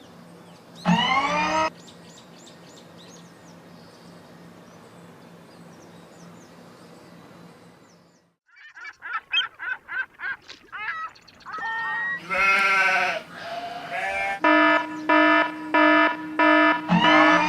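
A string of short pitched calls and chirps, animal-like in sound, then a regular beeping tone repeating about three times a second near the end.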